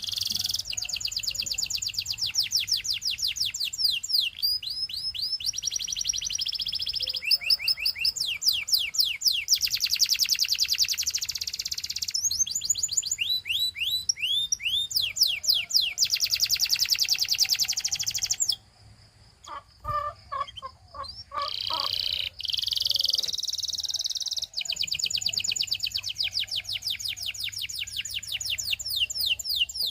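Domestic canary singing in long, fast trills of rapidly repeated, falling high notes, one trill rolling into the next. About two-thirds in the song breaks off briefly for a few short, lower notes, then the trilling resumes.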